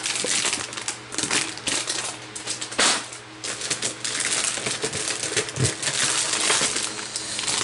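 Plastic bags crinkling and hard plastic model-kit runners clicking and rattling against each other as they are handled, a steady stream of irregular crackles and clicks.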